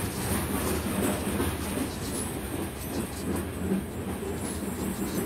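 BNSF freight train of covered hopper cars rolling past close by: a steady rumble of steel wheels on the rails with a running clatter of wheel clicks over the rail joints.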